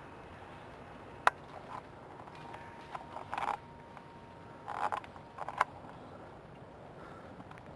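Ice-coated tree limbs cracking in the freezing rain: one sharp snap about a second in, then a few short bursts of crackling and popping in the middle.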